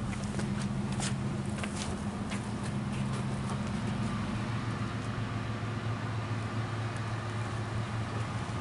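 A steady low mechanical hum, with a few sharp clicks in the first three seconds.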